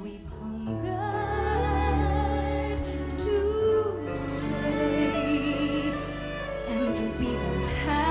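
Slow orchestral ballad music with sustained strings.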